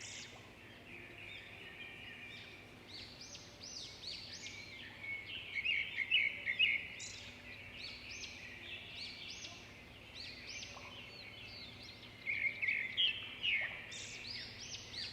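A flock of small pet parrots in an aviary colony chirping and chattering continuously, many quick high calls overlapping, with louder bouts of calling about a third of the way in and again near the end.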